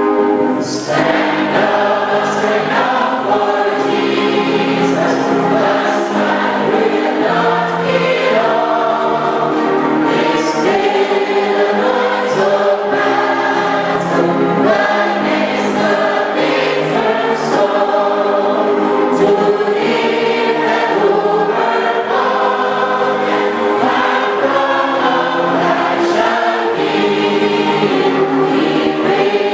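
Church congregation singing a hymn together, many voices in a continuous loud sung melody.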